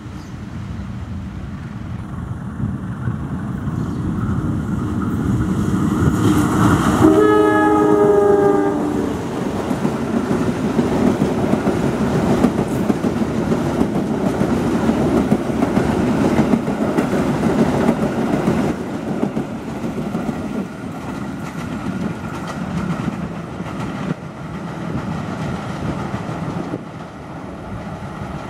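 A diesel-electric locomotive hauling a passenger train passes close by. Its rumble builds, then comes a horn blast of about two seconds about seven seconds in, its pitch dropping slightly as it goes by. The steady clatter of the coaches' wheels on the rails follows and fades in the last several seconds as the train moves away.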